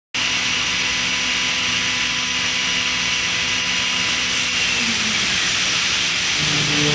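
CNC machining centre spindle running at high speed while a solid carbide endmill mills P20 tool steel: a steady hiss with several constant whining tones. About six seconds in, a new low steady hum with a few even tones joins it.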